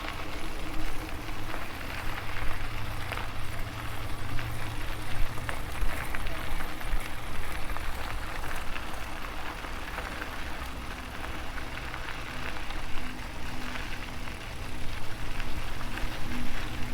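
Wind buffeting the microphone and tyre rumble from an e-bike rolling along a trail, with a faint pulsing hum in the second half.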